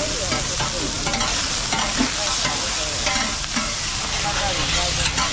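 Oyster omelette frying on a large flat pan: a steady sizzle, with metal spatulas repeatedly scraping and clinking against the pan as the egg and oysters are turned.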